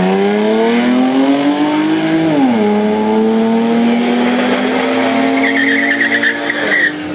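Naturally aspirated V6 of a 2011 Camaro LS under full-throttle acceleration, its pitch climbing steadily through a gear, dropping sharply at an upshift about two and a half seconds in, then climbing again through the next gear.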